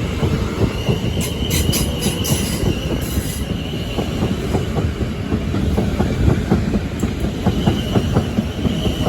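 Class 450 Desiro electric multiple unit departing, its wheels knocking rapidly over rail joints and points. A thin, steady wheel squeal comes in about a second in, fades, and returns near the end.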